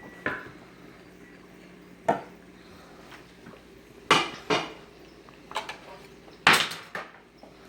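A serving utensil clinking and scraping against cookware and a bowl as tortellini is dished out: a string of about seven sharp knocks, the loudest pair coming a little past halfway and near the end.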